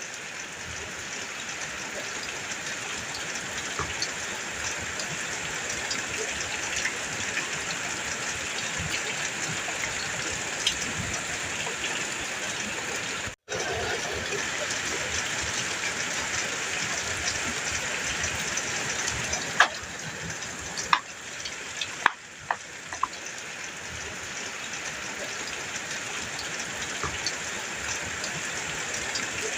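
Steady heavy rain on a metal roof: a constant hiss with sharp individual drop ticks, several louder ones about twenty seconds in. The sound breaks off for an instant about thirteen seconds in.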